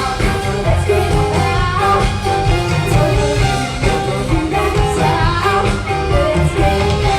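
Live big band playing with a singer, over a steady bass and drum groove.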